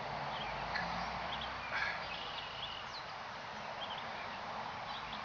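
Outdoor background: a steady hiss with scattered short, high chirps, typical of small birds calling.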